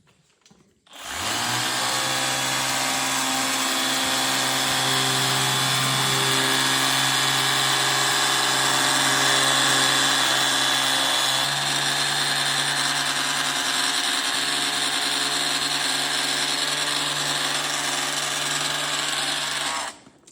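Pressure washer running steadily with a motor hum and the hiss of its spray. It starts about a second in and cuts off just before the end.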